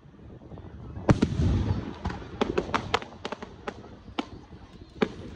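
Aerial fireworks: a shell bursts with a sharp bang about a second in, followed by a low rumble, then a run of sharp pops and crackles as the stars break.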